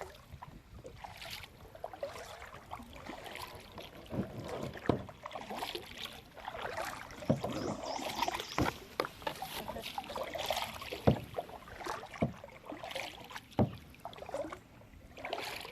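Kayak paddling: paddle blades dipping and splashing, with water dripping and a few sharp knocks scattered through.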